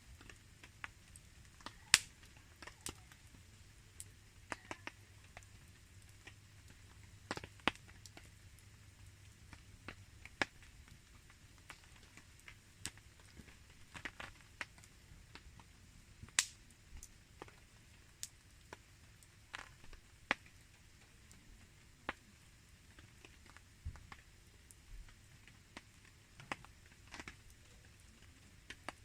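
Campfire burning: irregular sharp crackles and snaps of burning wood, about one or two a second, over a faint steady hiss of light rain.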